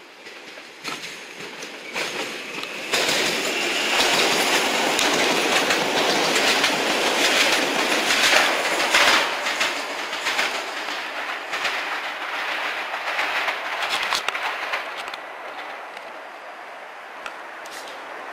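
Regional electric multiple-unit train passing close by, its wheels clattering over rail joints and points. The noise builds up about three seconds in and fades after about ten seconds, with a few single clicks near the end.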